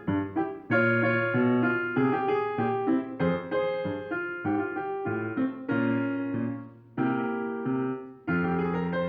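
Background music played on piano or electric piano: chords struck and left to fade, at a gentle, even pace.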